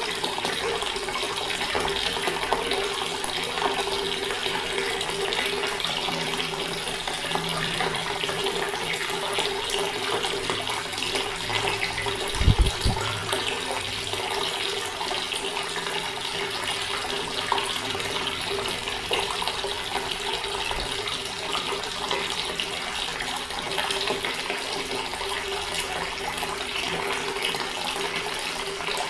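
Water running steadily from a tap, with a faint steady hum under it. About twelve seconds in there is one short low thump.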